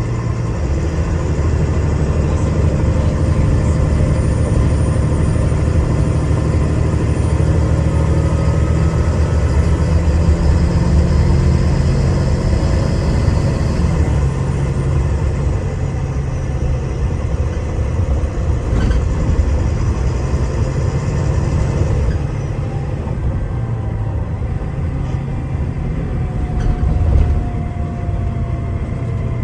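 Diesel engine and drivetrain of a Wright Eclipse Gemini 2 double-decker bus on a Volvo B9TL chassis, heard from on board, rumbling under load as the bus accelerates. The pitch climbs in steps through the gears, then the engine eases off about two-thirds of the way through.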